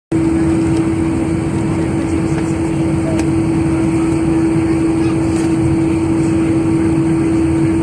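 Airbus A320 cabin noise while taxiing: a steady rumble of engines and airflow with a constant hum.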